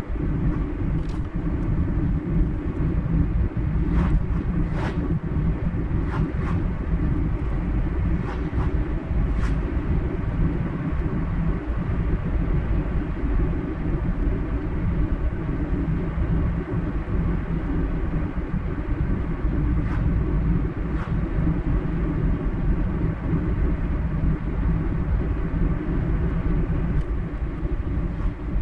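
Steady low road rumble of a car driving along a highway, tyre and engine noise holding even throughout, with a few faint ticks scattered through.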